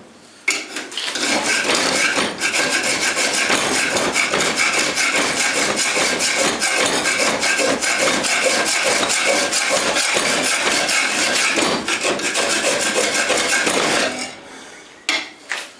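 A hand-forged sen, a Japanese draw scraper, scraping across steel in rapid, continuous strokes with a faint steady ringing, starting about half a second in and stopping about fourteen seconds in.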